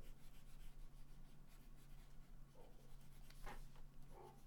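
Faint scratching of a red colouring pencil on paper as an area is shaded in, in short, irregular strokes.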